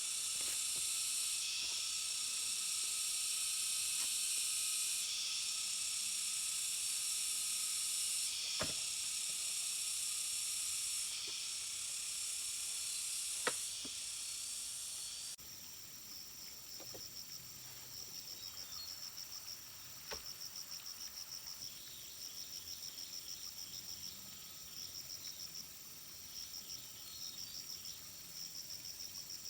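Insects calling: a loud high buzz in long phrases with short breaks, which cuts off abruptly about halfway through and gives way to a softer rapid pulsing chirp, like crickets. A few sharp clicks sound in between.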